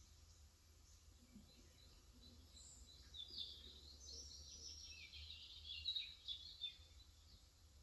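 A bird twittering outside, a quick run of high chirps from about three seconds in until near the end, over a faint low hum.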